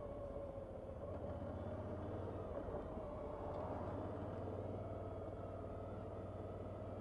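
Suzuki V-Strom 650 motorcycle's V-twin engine running steadily while riding, a humming tone that creeps slightly higher in pitch about halfway through.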